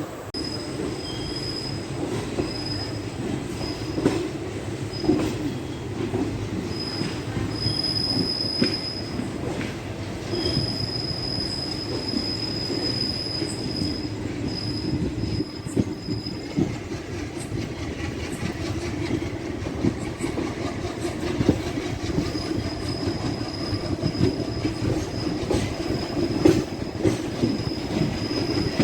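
Kacheguda–Kurnool DEMU passenger train running on the track: a steady rumble of wheels on rail with scattered clicks over rail joints, and a thin high squeal that comes and goes.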